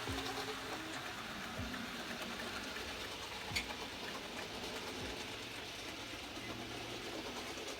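N gauge model train running on the layout's track: a steady quiet whir of motor and wheels on rail, with a single click about three and a half seconds in.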